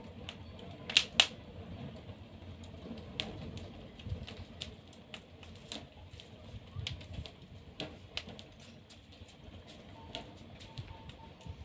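Wood fire crackling in a fireplace: irregular sharp pops and snaps over a low rumble, with two loud pops about a second in.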